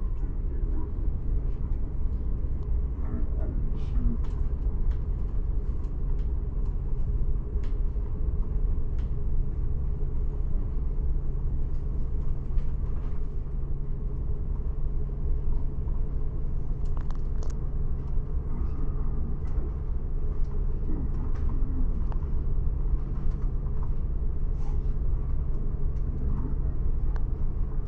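Steady low rumble of a moving bus, engine and road noise heard from inside the cabin, with a faint hum and occasional light rattles and clicks.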